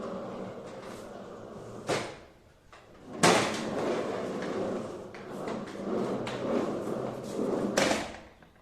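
Child's ride-on toy car rolling across a hard floor, its wheels rattling and rumbling. There are sharp knocks at about two seconds, three seconds and near the end.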